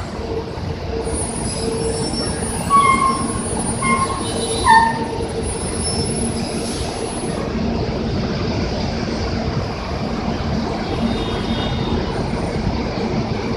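City bus brakes squealing in three short, high-pitched squeals in the first five seconds, over the steady noise of bus engines and traffic at a busway stop.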